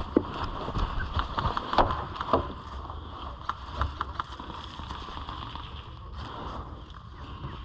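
Steady low rumble and hiss, like wind or handling on the microphone, with scattered sharp clicks and knocks in the first couple of seconds.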